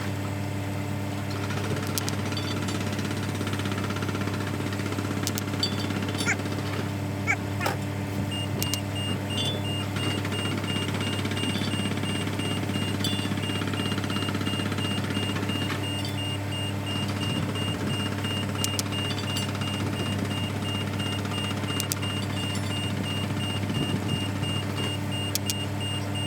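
A diesel engine running steadily at idle, with scattered sharp metallic clicks. From about a third of the way in, a rapid, regular high beeping runs alongside it.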